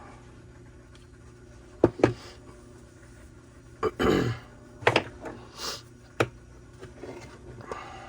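A run of sharp clicks and knocks from handling the small parts of a string trimmer's fuel tank and fuel line, with a short rough sound about four seconds in and a brief hiss near six seconds.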